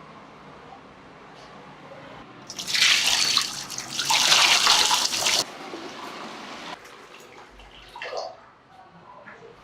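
Spray hissing in two bursts of about a second and a half each, a few seconds in, with light clinks and handling noise before and after.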